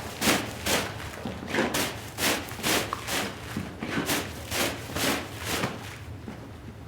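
Rhythmic sweeping strokes over a rug, about two a second, each a short hiss; they stop about six seconds in.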